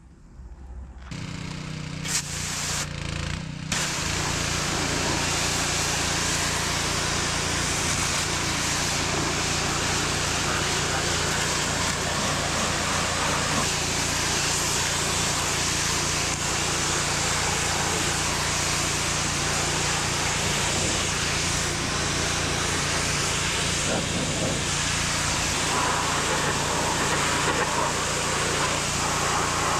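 Pressure washer starting up about a second in, then running steadily with the loud hiss of its spray jet over the hum of its motor.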